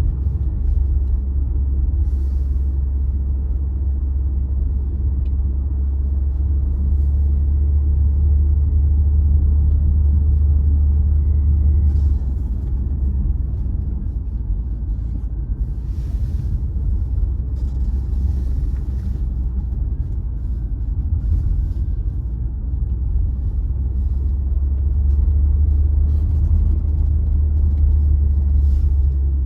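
Car driving on a road: a steady low rumble of engine and road noise, with a few brief hissy flare-ups now and then.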